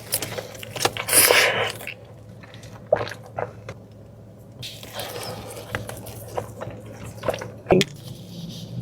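Close-miked eating sounds: wet chewing and mouth smacks as a series of irregular clicks, with a louder, noisier crunching burst about a second in.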